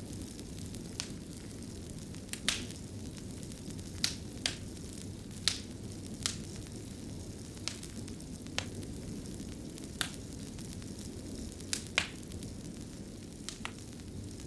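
Wood fire in a fireplace crackling: a steady low rumble under sharp, irregular pops, roughly one a second.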